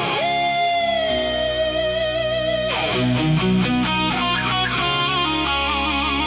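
Hard rock music: an electric guitar lead bends up into one long sustained note with vibrato, then plays quicker, shifting notes from about halfway through, over bass and drums.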